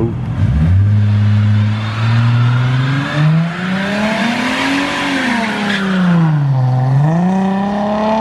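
A car engine accelerating as it leaves. Its pitch climbs steadily for about four seconds, drops back, then climbs again and holds steady near the end.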